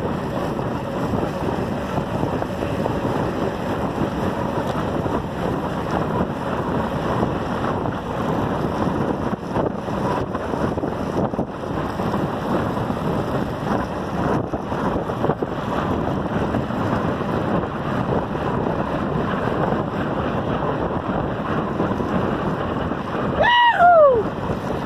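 Steady rushing of wind over the microphone of a camera riding on a moving road bicycle, with road and tyre noise underneath. Near the end a brief sliding, pitched cry rises over it.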